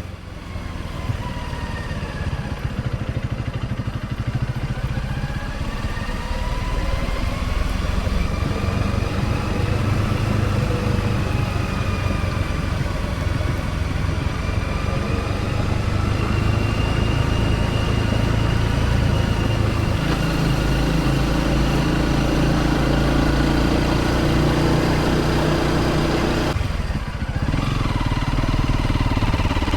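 Honda CRF250 Rally's single-cylinder 250 cc engine running on the move, its pitch slowly rising and falling with the throttle, with a short drop in the engine note near the end.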